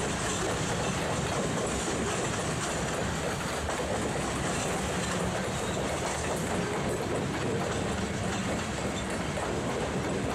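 Freight train cars rolling past, with steady wheel-on-rail noise that holds even throughout.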